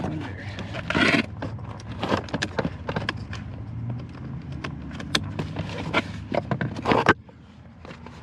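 Repeated knocks, clicks and clatter over a steady low hum, with louder clattering bursts about one second in and again near seven seconds; the hum and noise cut off abruptly just after the second burst.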